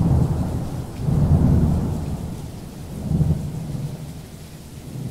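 Rolling thunder rumbling low, swelling about a second in and again around three seconds in, then dying down near the end.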